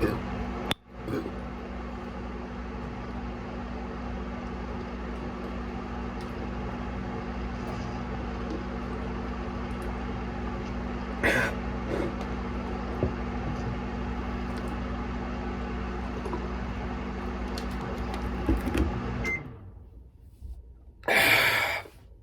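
Microwave oven running as a one-minute timer, a steady hum with faint clicks, that cuts off suddenly about nineteen seconds in. A loud breath follows near the end.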